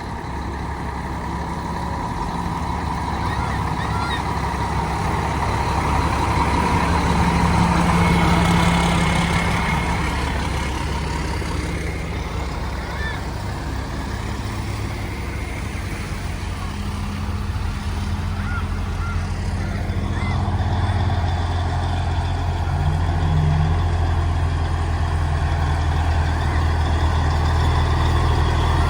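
Heavy truck engines running as large vehicles roll slowly past, loud and steady, swelling about a quarter of the way in and again in the second half.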